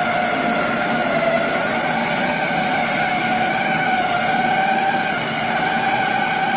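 Soybean cracking and dehulling machine running: a steady whine that wavers slowly in pitch, over a dense hiss.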